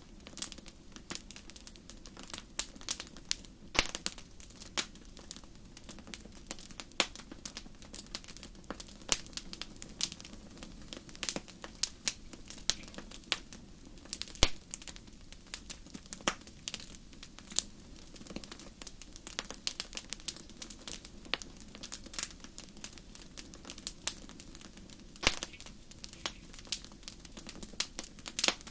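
Wood fire burning in a fireplace, crackling and popping with irregular sharp snaps over a steady low rush of the flames.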